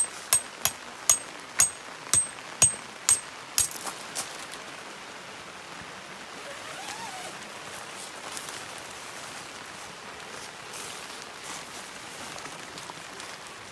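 Steady rain falling. In the first four seconds there is a run of about nine sharp, ringing metallic pings, roughly two a second.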